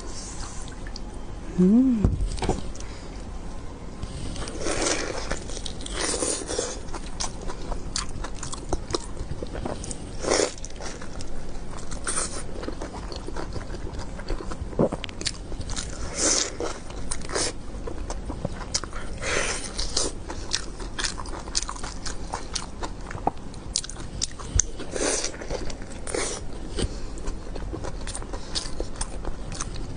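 A person eating spicy sheep brains close to the microphone, with chewing, biting and mouth smacks coming in short, irregular clicks. A brief hum-like vocal sound comes about two seconds in.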